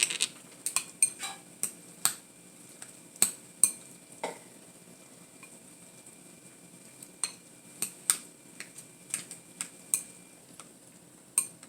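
A spoon stirring macaroni and cheese in a bowl, clinking against the bowl in irregular sharp taps, with a quieter stretch partway through.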